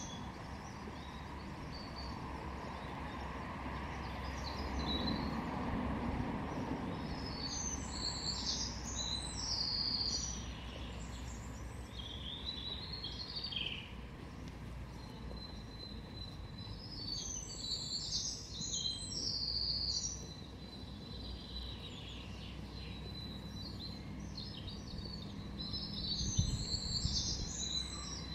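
Songbirds singing in short bursts of chirping phrases every few seconds, over a steady low outdoor rumble.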